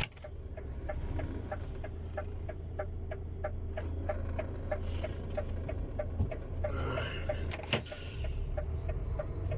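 Hazard-light flasher ticking steadily, about two to three clicks a second, inside a truck cab over the low rumble of the truck's engine. A single sharp click comes near the end.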